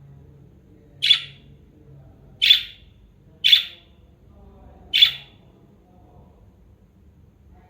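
Budgerigar giving four short, shrill calls, each a sharp chirp, spaced about a second or so apart.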